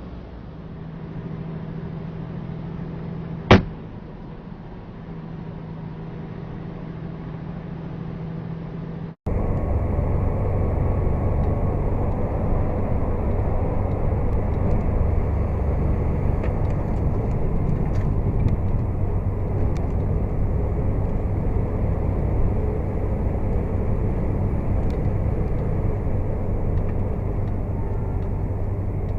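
Steady engine and road drone of a vehicle driving, as picked up by a dashcam. A single sharp click sounds about a third of the way in. About nine seconds in, the sound cuts abruptly to a louder, duller drone with a strong low hum.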